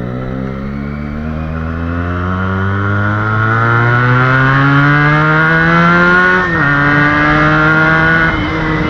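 Motorcycle engine under hard acceleration: its pitch climbs steadily for about six seconds, drops abruptly at an upshift, then runs steady in the higher gear.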